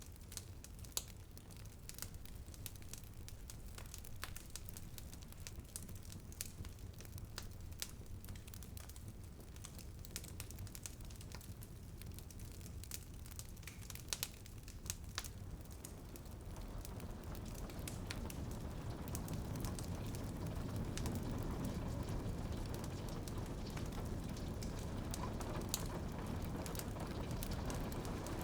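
Wood fire crackling with scattered sharp pops over a low steady rumble, and rain on a window pattering in and growing louder about halfway through.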